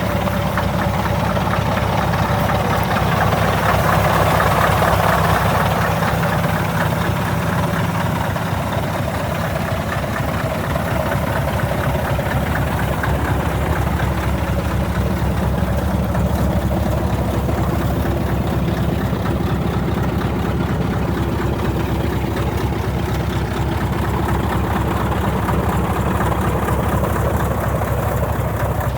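Scania T144 truck's 14-litre V8 diesel engine idling steadily, swelling slightly in level about four seconds in.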